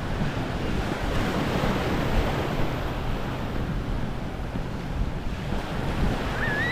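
Small waves washing on a sandy shore, with wind buffeting the microphone. Near the end comes a brief, wavering high-pitched call.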